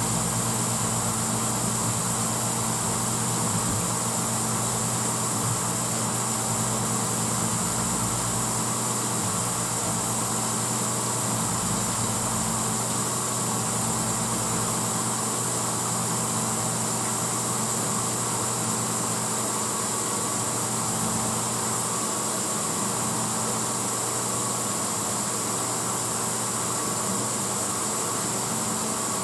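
1986 Hotpoint Potwasher dishwasher running mid-cycle: a steady motor hum under an even hiss of water spraying inside the tub.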